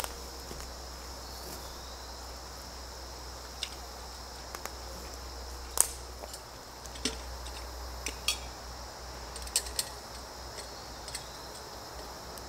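Scattered light clicks and clinks of small metal gear and utensils being handled and set down, about a dozen over the stretch, the sharpest near the middle and about three quarters of the way through, over a steady faint high hiss.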